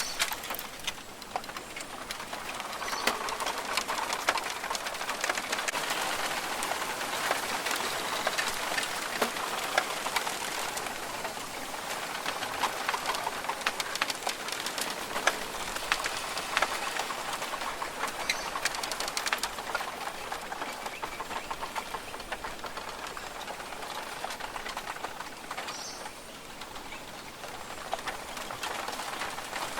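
Rainforest ambience: many birds calling over one another, with a dense, steady mass of short chirps and clicks.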